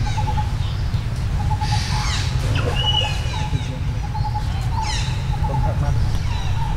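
Birds calling: short repeated notes and, twice, a quick falling chirping call, over a steady low rumble.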